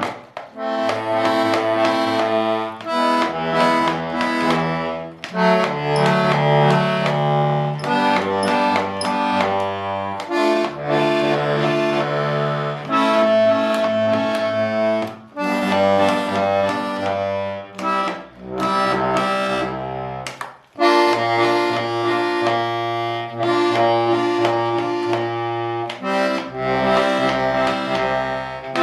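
Hohner Corona II diatonic button accordion (pre-Corona) played as a tune, a melody over bass and chord notes with brief pauses. It is heard before tuning: by the seller's account it could use a few valves and some tuning.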